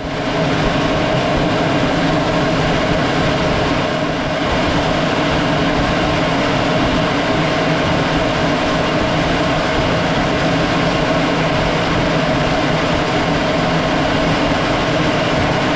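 Aircraft in flight: a steady, loud drone of engine and airflow noise with several fixed engine tones, starting and stopping abruptly.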